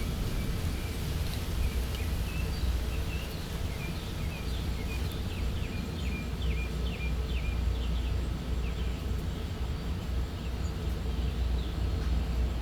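Small birds chirping outdoors over a steady low background rumble: a run of short, high, downward chirps, quickening in the middle of the stretch and thinning out toward the end.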